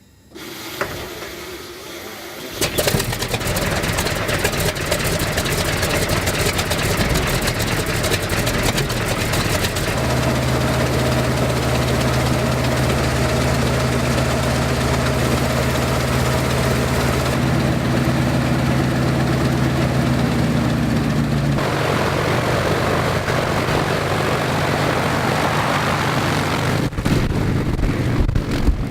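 Westland Lysander's nine-cylinder radial engine starting: it cranks briefly, catches about two and a half seconds in and then runs steadily, turning its propeller. The engine note shifts to a different running speed about ten seconds in and again about two-thirds of the way through.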